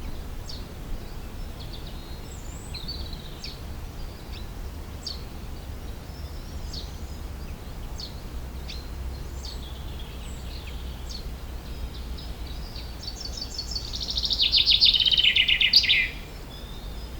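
Wild songbirds chirping with scattered short high calls, then about two-thirds of the way through a loud, fast trill that steps down in pitch over two seconds and stops abruptly. A low rumble of wind lies underneath.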